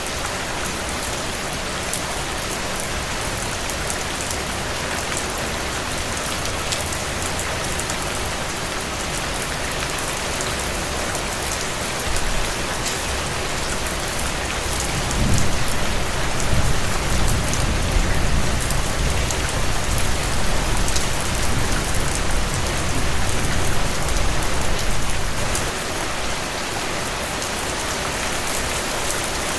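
Steady heavy rain pattering on a surface, with a long low rumble of thunder that swells about halfway through and lasts about ten seconds.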